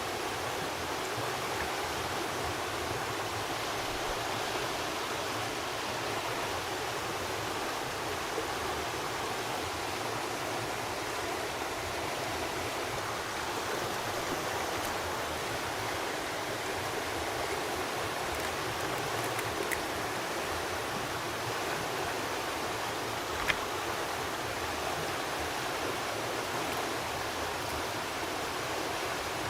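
Steady rushing of a flowing rainforest stream, with a single sharp click late on.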